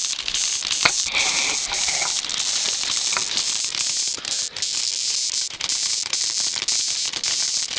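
Cicadas buzzing: a loud, steady, high-pitched rattling drone.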